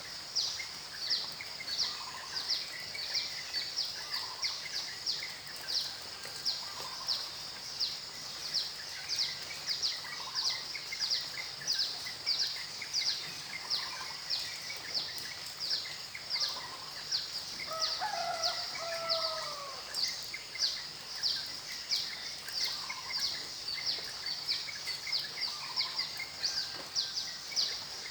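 Outdoor nature ambience of animal calls: a high-pitched chirp repeats steadily about two to three times a second, with a softer call about every two seconds and a falling two-part call about 18 seconds in, over a faint steady hiss.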